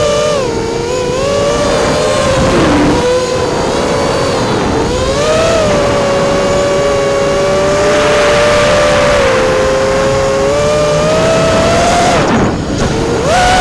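Brushless motors of a 210 mm FPV racing quadcopter, Rotor Riot Hypetrains turning Racekraft props, whining in flight over the rush of prop wash. Several close tones rise and fall together with the throttle. Near the end the pitch dips and then climbs sharply as the throttle is punched.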